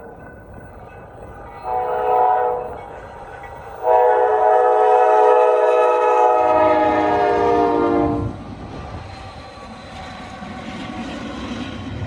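Norfolk Southern freight locomotive's air horn: a short blast about two seconds in, then a long blast of about four seconds whose pitch drops near its end as the locomotive passes. After the horn, the steady rumble of the train rolling by.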